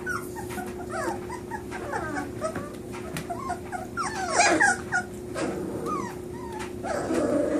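Several young puppies whimpering and squealing in many short, falling cries, loudest about halfway through.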